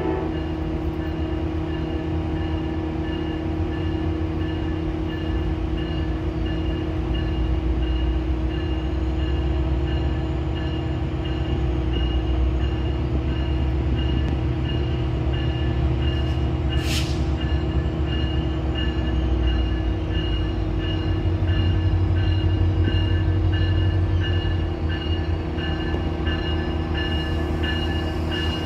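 Diesel locomotive of a passenger train approaching and pulling into the station, a steady low engine rumble with constant tones over it. A brief hiss comes a little over halfway through.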